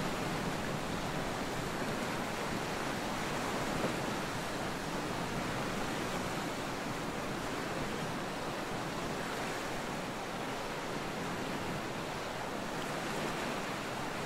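Steady outdoor rushing noise, even from low to high pitch with only gentle swells in level, the kind made by surf, moving water or wind.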